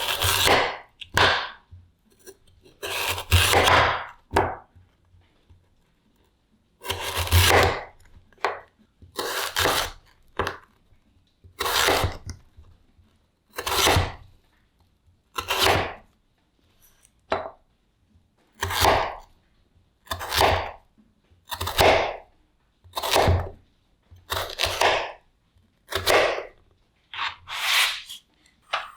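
Kitchen knife slicing through raw potatoes onto a cutting board, one slow cut every second or two, each ending in a dull knock, with a short pause about five seconds in.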